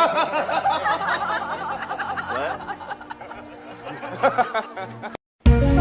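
A person laughing in high-pitched giggles that fade out after about three seconds. Near the end there is a sudden cut to music.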